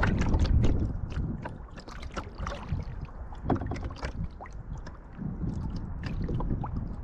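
Kayak paddle strokes: water splashing and dripping off the paddle blades in quick, irregular patters over a steady low rumble, with the busiest splashing in the first few seconds.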